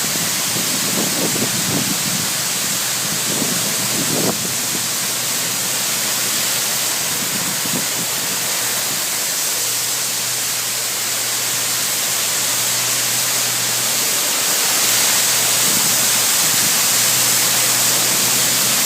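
High-pressure water jets of a touchless car wash spraying at about 1,000 psi, a loud steady hiss with a low hum underneath. It gets slightly louder near the end.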